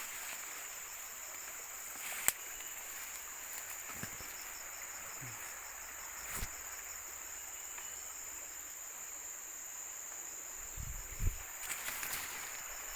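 A steady, high-pitched chorus of insects, with a faster pulsing trill beneath it. A few sharp clicks or knocks break in, the loudest about two seconds in and others near six and eleven seconds.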